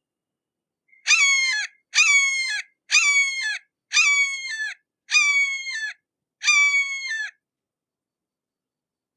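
Red-shouldered hawk calling six times in a row, about a second apart. Each call is a loud, high scream, held and then dropping in pitch at its end.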